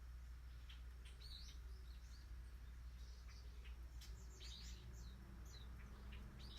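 Faint, scattered bird chirps: short high calls coming in small clusters about a second in and again past the middle, over a low steady hum.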